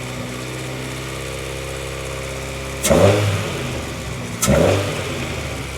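2001 Honda CR-V's B20 four-cylinder engine idling steadily just after being restarted, revved twice: once about three seconds in and again a second and a half later, each rev rising and then dropping back to idle. The idle holds, which the owner calls running great after he cleaned the sooted idle passage.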